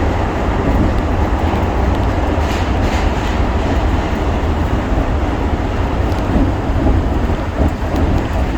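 Shonan Monorail 5000-series suspended monorail train running between stations, its rubber tyres rolling along the enclosed track beam. It makes a steady, loud rumble heard from inside the car.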